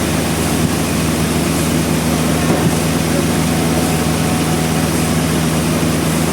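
Sawmill's engine running steadily at an even pitch, with no change in load.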